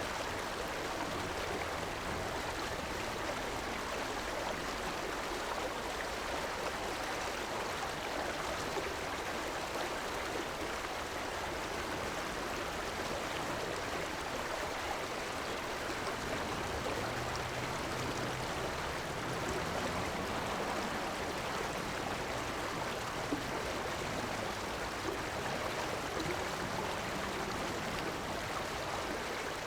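A river flowing over a shallow bed, with a steady rushing and burbling of water.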